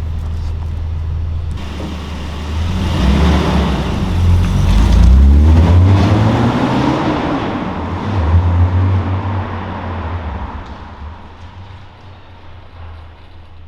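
Toyota Chaser's engine and exhaust under throttle, the note rising to a peak about five seconds in and falling, surging once more a little later, then fading away.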